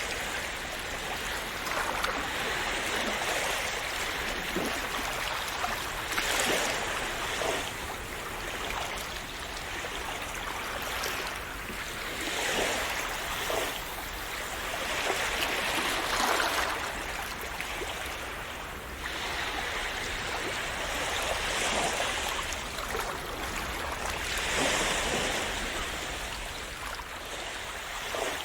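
Calm sea waves splashing and washing on the shore, a steady rush of water that swells with each wave every few seconds.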